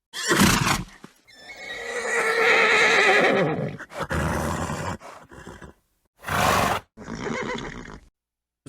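Horse neighing: one long whinny with a wavering pitch about a second in, set among several short, noisy snorts. The sounds are separate recordings cut together, with abrupt dead silences between them.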